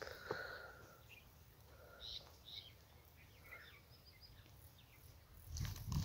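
Faint, scattered bird chirps over quiet open-air ambience, with a low rumble coming in near the end.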